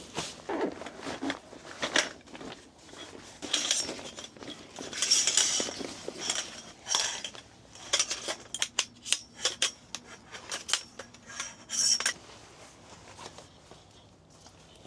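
Clattering and clinking of hard, partly metallic objects being handled and set down, with a quick run of light clicks between about 8 and 12 seconds in.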